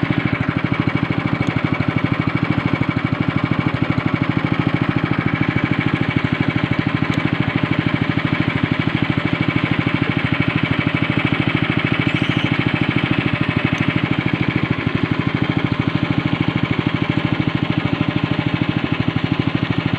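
Speedboat engine running steadily at a constant pitch, with a fast, even pulsing.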